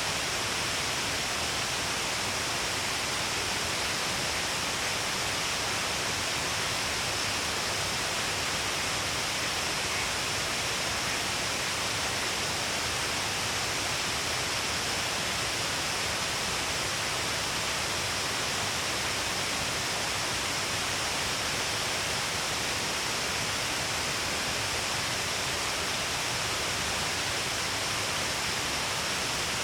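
Shiraito Falls, with water pouring down all along a cliff face, giving a steady, even rush of falling water that never changes.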